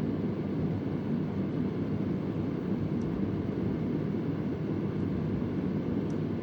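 Vintage Convair oscillating fan running: a steady, low rush of air. A few faint, irregular ticks sound in the background.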